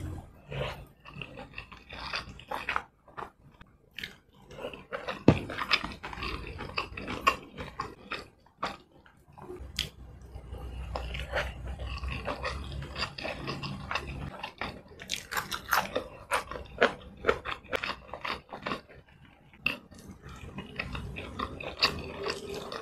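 Close-miked eating sounds: chewing with many short wet mouth clicks and smacks, a mouthful of rice and curry eaten by hand.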